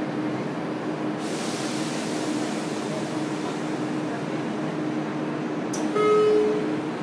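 Interior running noise of a JR Kyushu 303 series electric train in motor car MoHa 303-3: a steady rumble with a constant low hum. A hiss sets in about a second in, and a click and a short beep come about six seconds in.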